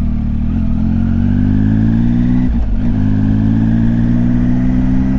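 Triumph Tiger 800 XCX's inline three-cylinder engine under way, pulling with its pitch slowly rising. There is a short dip about two and a half seconds in, then it pulls again from a slightly lower pitch.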